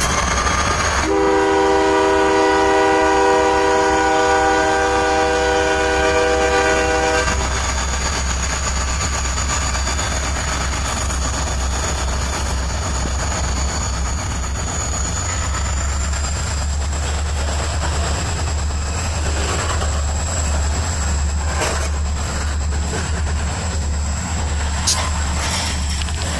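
Diesel freight locomotive sounding its multi-chime air horn in one long blast of about six seconds, over the steady low rumble of its diesel engine. The train keeps rolling afterwards, with a thin high whine and a few clanks of the cars near the end.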